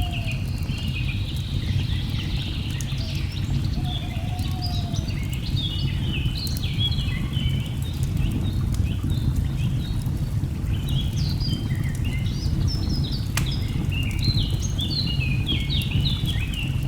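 Steady low rush of falling water, with a chorus of small birds calling over it in quick chirps and short falling runs of notes. Scattered light crackles of a wood fire can be heard.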